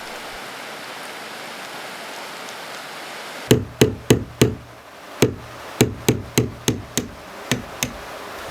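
A steady hiss, then a series of about a dozen sharp knocks, starting about three and a half seconds in and coming at an uneven pace with a brief pause after the first four.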